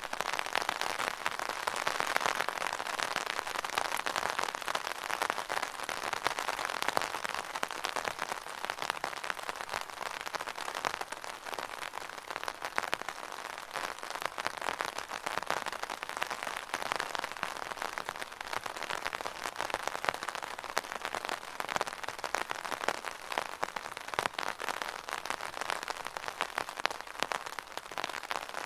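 Rain falling on an umbrella canopy: a dense, steady stream of small drop taps, fairly loud.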